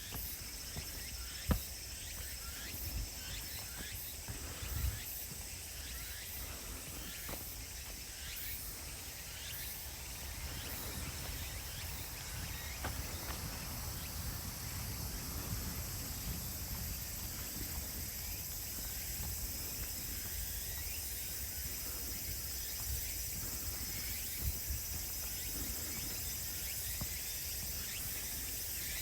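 Steady high-pitched chorus of late-summer insects, with a few scattered footsteps on the path and a low rumble underneath.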